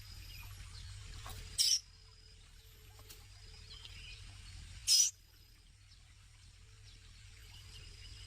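Baby bird giving two short, harsh, high-pitched calls about three seconds apart, over faint insect and bird background.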